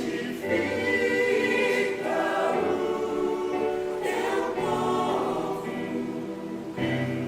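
Mixed choir singing a hymn in sustained phrases of several voices, with breaths between phrases.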